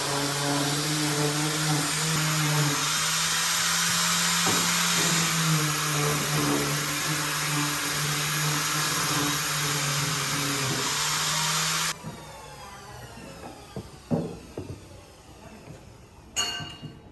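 A power tool's motor running steadily with a hum and a strong hiss, then stopping suddenly about twelve seconds in. A few knocks and a short clatter follow.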